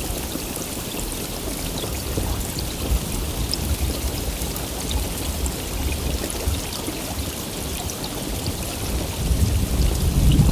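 Heavy rain pouring steadily, with scattered drops ticking; a low rumble of thunder starts to build near the end.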